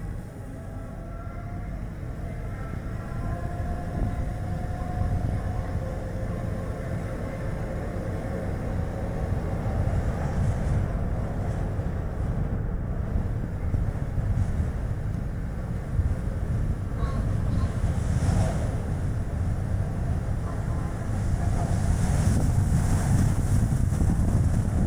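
Strong wind and road noise while a Chevrolet Spark city car drives, a steady low rumble that grows louder with hissing gusts in the second half. A faint rising engine hum is heard over the first ten seconds or so.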